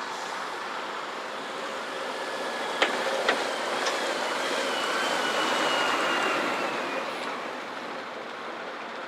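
Steady traffic noise. Two sharp clicks come about three seconds in, then the noise swells with a faint, slightly falling whine as a vehicle passes, and fades by about seven seconds in.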